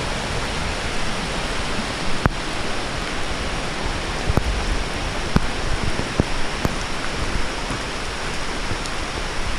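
Steady rain hissing, with a few single sharp ticks of drops landing close by.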